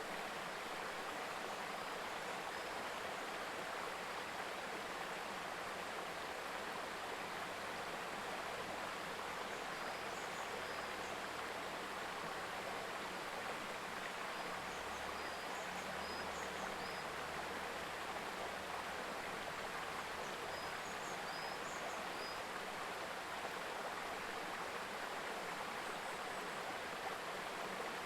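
Mountain river babbling steadily over stones, with a few faint high chirps heard over it now and then.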